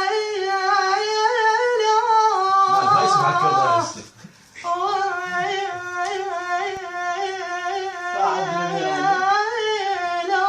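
A single voice singing long, ornamented held notes on drawn-out vowels rather than words. It breaks off briefly for a breath about four seconds in, then goes on.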